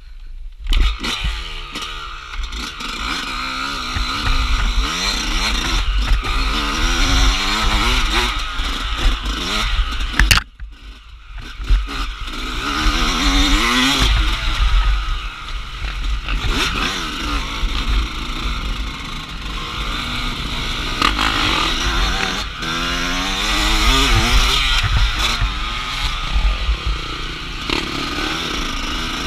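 Off-road motorcycle engine being ridden hard, revving up and falling back again and again, with a brief let-off about ten seconds in.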